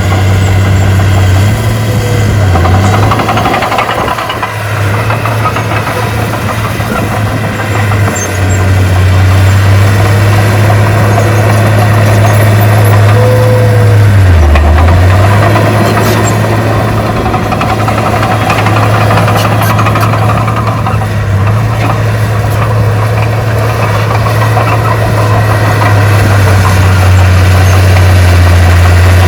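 Heavy diesel engine of earthmoving machinery running steadily with a low hum, dipping in pitch twice as it lugs under load, with a few brief squeaks.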